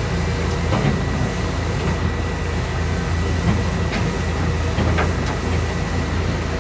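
Heavy diesel dump truck engine running steadily with a low rumble, with a few sharp metallic knocks about a second in and again around four and five seconds.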